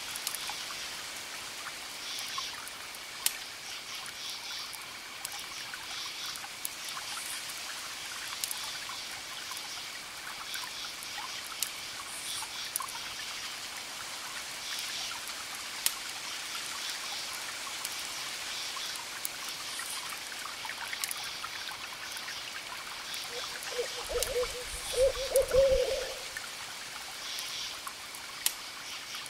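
Wood fire crackling with scattered sharp pops over a steady hiss. Near the end an owl hoots several times, the loudest sound in the mix.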